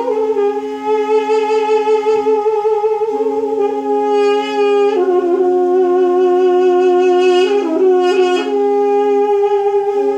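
Two duduk-family double-reed pipes (balaban and duduk) playing live: one holds a steady low drone note and the other plays a slow melody above it with trills and a quick flourish. The drone breaks off briefly about two and a half seconds in and again near the end.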